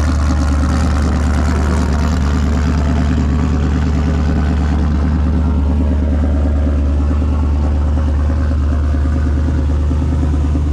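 Off-road race truck's engine idling steadily as it warms up, with a fast, even pulse.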